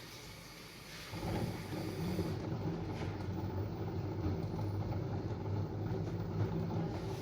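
LG F12A8NDS5 front-loading washing machine: quiet at first, then about a second in its direct-drive motor starts turning the drum with a steady low hum.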